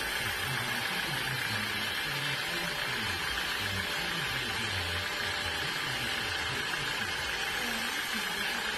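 Sawmill machinery running steadily, a constant mechanical noise with a steady high hum and an uneven low rumble.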